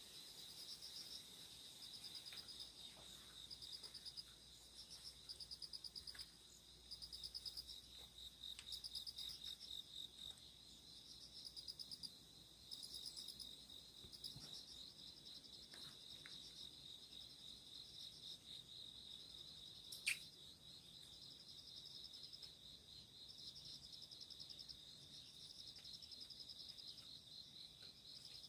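Faint chorus of insects chirping: a steady, fast high trill and a second insect calling in repeated short bursts at a slightly higher pitch. A single sharp click comes about two-thirds of the way through.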